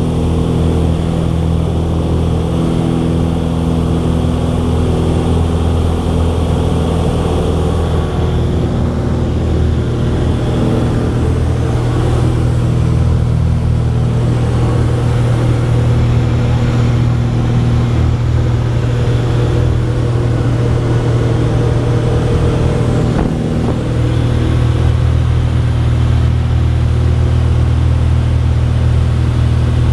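Cessna 182's piston engine and propeller running with a steady, loud drone.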